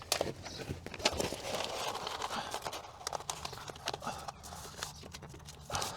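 Self-adhesive insulation sheet being handled and its backing paper peeled: rustling and crinkling with scattered taps and knocks.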